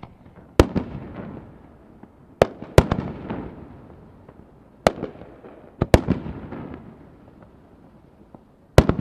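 Fireworks shells bursting overhead: about seven sharp bangs, some in quick pairs, each followed by a rolling echo that dies away over a second or so.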